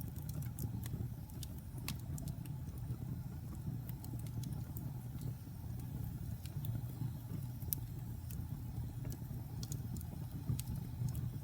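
Wood fire burning in a fireplace: a steady low rumble with frequent irregular sharp crackles and pops from damp and pine logs.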